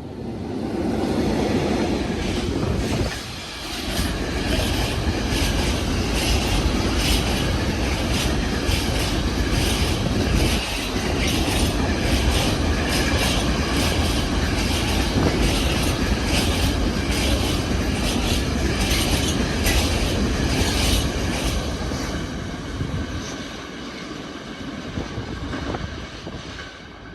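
A train passing close by: steady rumble of the wheels on the rails with a quick regular clatter, building in the first couple of seconds and easing near the end before cutting off.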